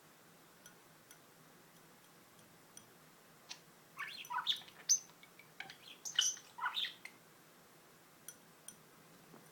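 Pet budgerigar chirping and chattering in a burst of short, quick calls from about four to seven seconds in, with a few faint ticks before and after.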